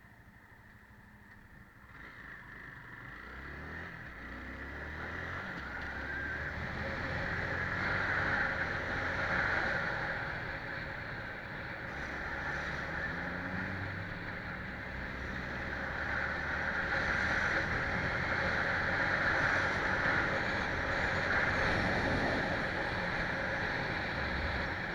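A vehicle engine pulling away and picking up speed, its pitch stepping up and shifting over the first several seconds, with wind and road noise building and then staying steady.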